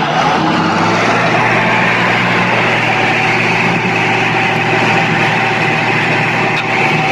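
An engine running steadily, with a low hum and a hiss, shifting slightly in pitch now and then.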